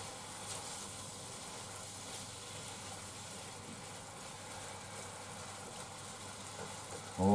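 Chicken, Chinese cabbage and onion sizzling softly and steadily in teriyaki sauce in a frying pan as they are stirred with chopsticks.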